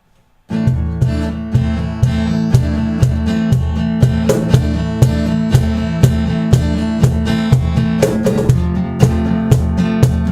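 Acoustic guitar strumming in a steady rhythm, coming in about half a second in.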